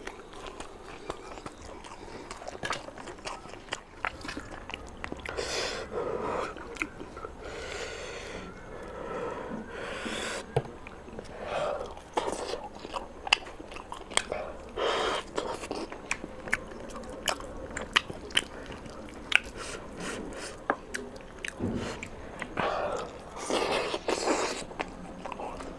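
Close-up eating sounds of a person biting and chewing curried chicken and rice taken by hand: wet chewing with many short, sharp mouth clicks.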